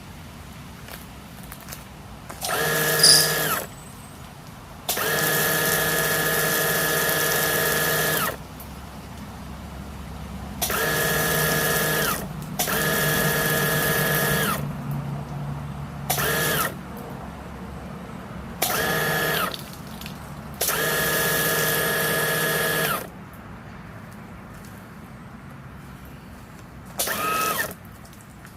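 Kärcher lithium-ion battery pressure washer's motor and pump running in about eight trigger bursts, from under a second to a few seconds long, each starting and stopping abruptly. The motor gives a steady whine under the hiss of the water spray.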